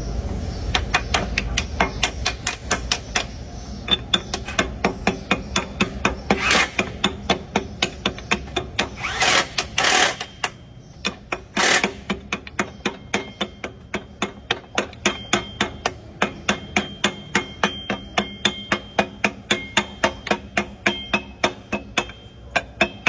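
Rapid, fairly even light taps, about three or four a second, typical of a piston being tapped down into its cylinder bore with a hammer. A few short hissing bursts come in around the middle.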